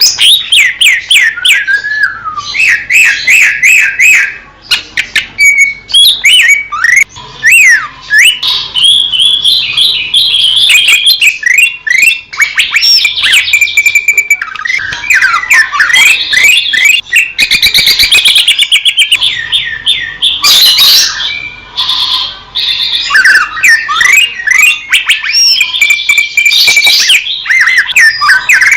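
Green leafbird (cucak ijo) singing a continuous, loud, varied song. It runs through rapid chattering strokes, sweeping whistled glides up and down, and short held whistles, with only brief pauses.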